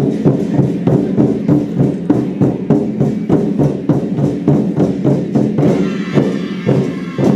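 Lion-dance troupe's war drum beaten in a fast, even rhythm, about four strokes a second.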